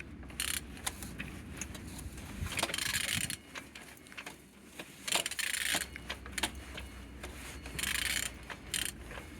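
Engine being turned over by hand with a wrench on the crankshaft: scattered metallic clicks and three short rasping stretches about two and a half seconds apart, each under a second long. The engine turns freely.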